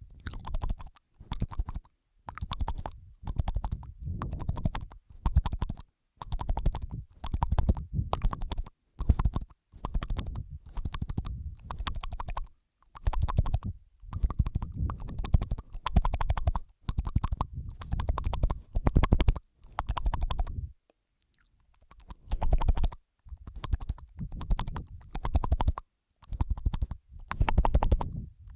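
Close-miked, layered ASMR mouth sounds: wet clicking and smacking in bursts of about a second each, separated by short silences, with a longer pause about three-quarters of the way through.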